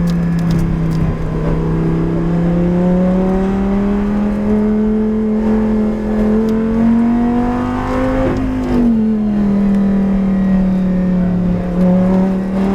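Race car engine under load, its pitch climbing slowly for several seconds, then falling quickly about eight seconds in and holding steady.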